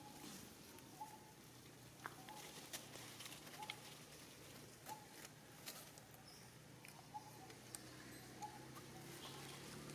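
Quiet outdoor ambience: a bird repeats a short, single-pitched note about once a second, with scattered faint clicks and rustles.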